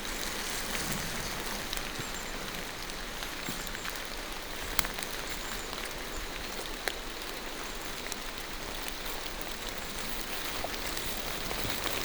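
Steady rain falling through forest trees, an even hiss with scattered drop ticks. Two sharper clicks stand out, about five and seven seconds in.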